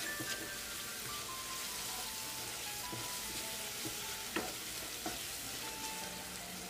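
Onion, tomato and spice masala sizzling in oil in a nonstick kadai while a wooden spatula stirs and scrapes through it, as the masala is fried down (kosha). There are a couple of light knocks of the spatula against the pan near the middle.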